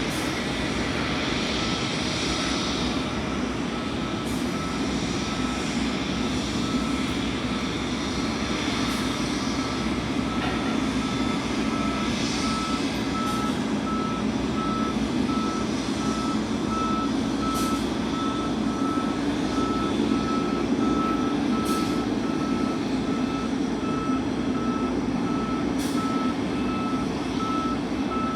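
Vehicle reversing alarm beeping at a steady, even rate over a constant low engine rumble.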